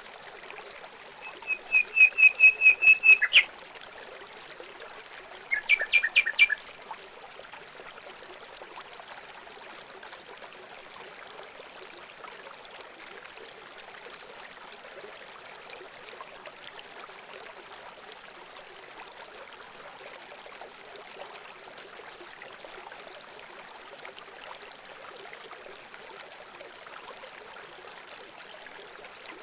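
Steady rush of running water, with a bird calling twice near the start: a fast run of about ten sharp repeated notes, then a shorter burst of four or five a few seconds later.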